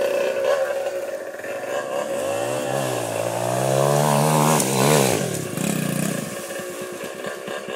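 Dirt bike engine revving up and down, climbing to its highest pitch about four to five seconds in, then dropping back to a lower, evenly pulsing run near the end.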